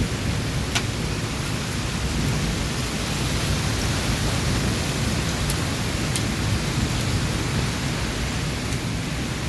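Heavy rain pouring steadily, with a low rumble of thunder underneath and a few sharp ticks of drops striking close by.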